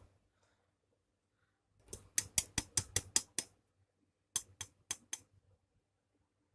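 Short, sharp scraping strokes in quick succession, about eight in a row, then four more after a brief pause, as the parts of a desoldering pump are scrubbed clean of solder particles.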